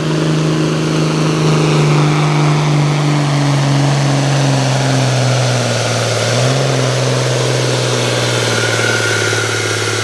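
John Deere 4450 tractor's six-cylinder turbocharged diesel running hard under load while pulling a weight sled, its pitch slowly sinking as the engine lugs down through the pull. A thin high whine joins near the end.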